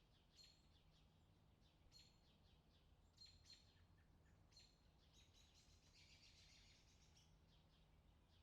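Faint birdsong: short high chirps about once a second, then a longer trill around five to seven seconds in, over a faint steady low hum.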